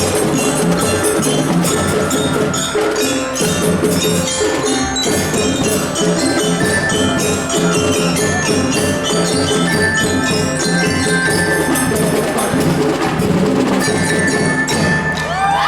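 School drum band playing a piece: marching drums beating a dense, steady rhythm under ringing, bell-like melodic tones.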